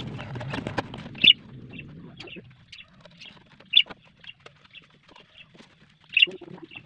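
Three short, sharp bird calls about two and a half seconds apart, over light knocks, clicks and rustling from a plywood back panel and its wires being handled and fitted onto a speaker box.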